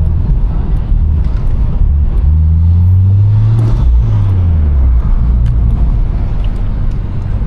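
Car engine and exhaust drone, low and loud. It climbs in pitch as the car accelerates about two seconds in, then drops back shortly after four seconds and settles into a steady low run.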